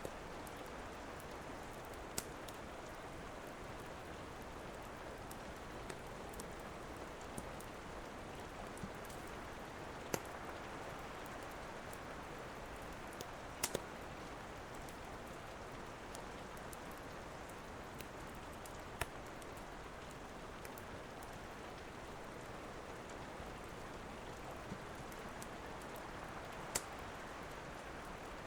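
Steady rain, with a crackling wood fire giving a few sharp, scattered pops, two of them in quick succession about halfway through.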